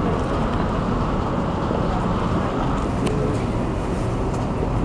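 Steady rumbling noise of a JR West 227 series electric train standing at a station platform, with faint voices of people around it.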